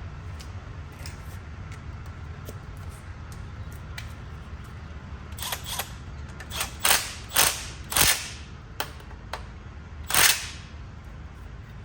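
A run of sharp knocks and clicks, as parts and tools are handled while the exhaust is fitted, starting about halfway through and loudest near the end, over a steady low hum.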